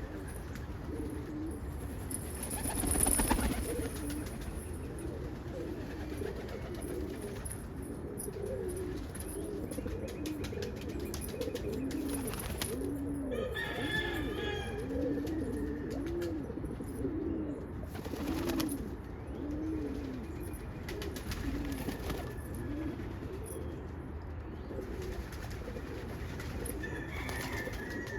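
Pigeons cooing: a long run of low, arched coos repeating about once a second, with a brief rustling noise about three seconds in.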